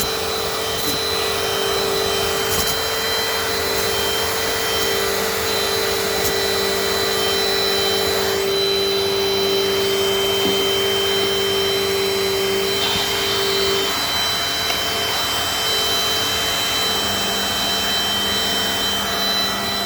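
Dirt Devil Dynamite Plus vacuum cleaner running steadily while picking up debris from the floor, a continuous motor whine with a slight change in tone about two-thirds of the way through.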